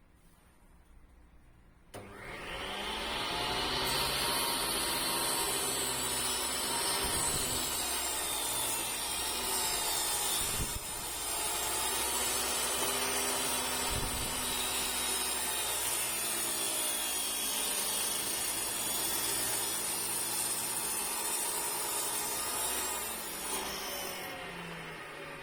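An electric power tool's motor spins up about two seconds in, runs steadily with a whine for about twenty seconds, then winds down near the end.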